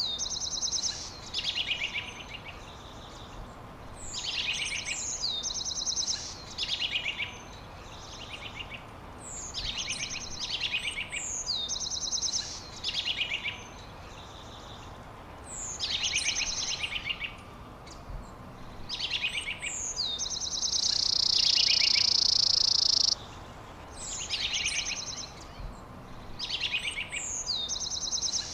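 A songbird repeating a short, high song phrase about every three seconds, each a quick trill with a slurred whistle. About twenty seconds in, a loud steady buzz runs for a couple of seconds and cuts off suddenly.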